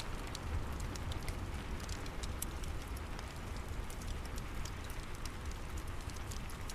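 Steady rain hissing, mixed with the crackle of a wood fire in a fireplace: scattered sharp pops and clicks over an even wash of rain with a low rumble underneath.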